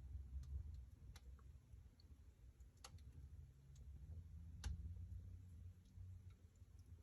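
Wood fire in a fireplace crackling: a handful of faint, sharp pops at uneven intervals over a low rumble.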